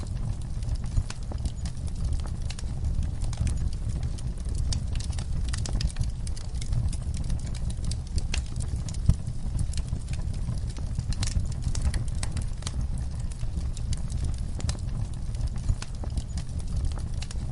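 Campfire crackling, with irregular sharp pops and snaps over a steady low rumble of the burning fire.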